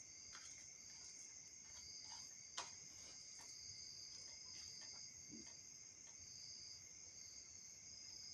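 Faint, steady chirping of crickets, with a few soft clicks and one sharper click about two and a half seconds in.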